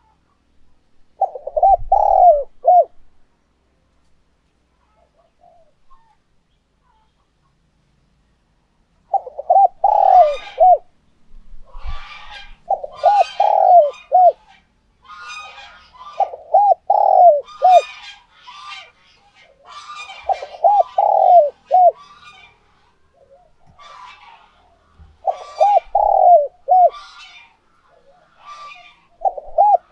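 Spotted dove cooing: a phrase of four or five quick, low coos, then after a pause of several seconds more phrases about every three to four seconds, about seven in all. It is the advertising call of a tame decoy male, used to draw in wild doves.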